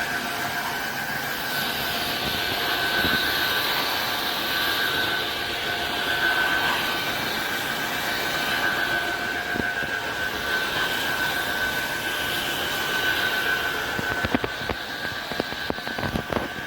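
Tineco iFloor 5 Steam wet-dry floor cleaner running, a steady motor whine over a hiss of suction. A few clicks and knocks come near the end.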